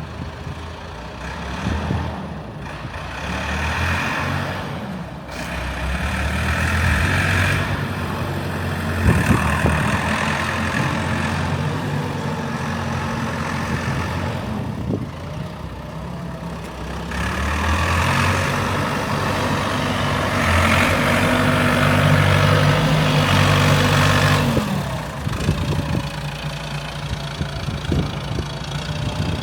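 Ford 5610 tractor's four-cylinder diesel engine running, its speed and loudness rising and falling several times between steadier stretches.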